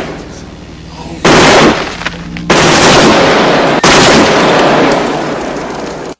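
Battle sound effect: three sudden loud blasts about a second apart, each leaving a long rumbling tail, the last tail fading out over about two seconds before the sound cuts off.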